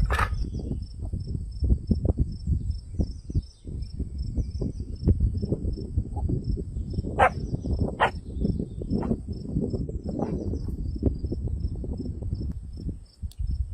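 Insects, crickets by their sound, chirring steadily with a regular pulsed chirp, under irregular low knocks, clatter and rustling close by.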